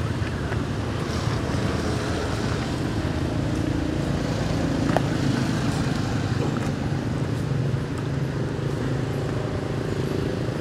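A motor vehicle engine running steadily with a low, even hum, and a few faint clicks.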